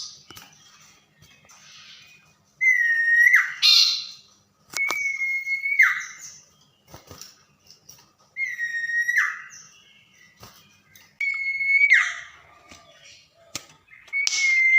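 Common iora (cipoh) singing: a steady high whistle that ends in a quick downward slur, given five times a few seconds apart, with a few faint clicks in between.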